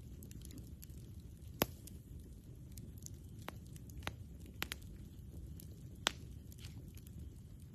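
Campfire crackling: a handful of sharp wood pops, the loudest about a second and a half in and again about six seconds in, over a low steady rumble.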